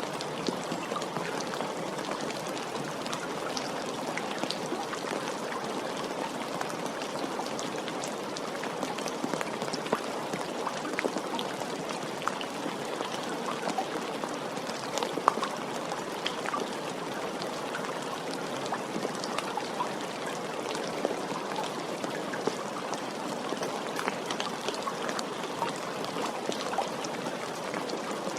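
Steady rain falling, an even wash of noise dense with many small separate drop ticks.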